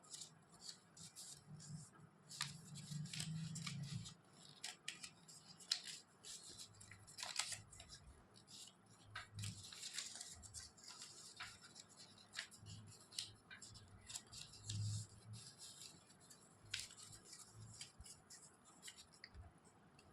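Origami paper rustling and crinkling in irregular bursts as it is handled and folded, with a few soft low knocks.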